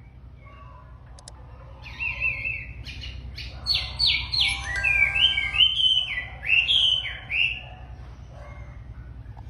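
Chinese hwamei (wambi) singing a loud, varied whistled song of repeated notes and rising and falling slurs, starting about two seconds in and easing off near the end. A steady low hum runs underneath.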